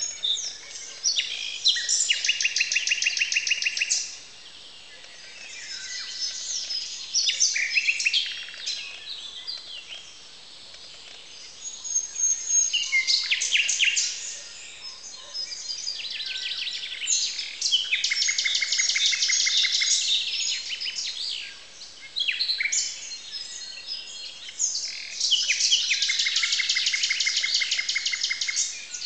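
Dawn chorus of many songbird species, dominated by a common nightingale. Its loud phrases last a few seconds, each a fast run of rapidly repeated notes, with softer song from other birds in between.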